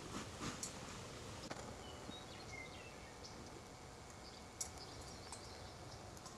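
Steady outdoor background hiss with a few faint, short bird chirps and scattered small clicks.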